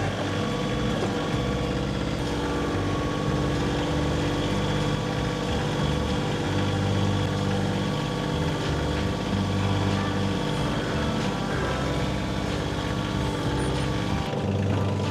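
Kioti compact tractor's diesel engine running steadily, its low note shifting a little from moment to moment.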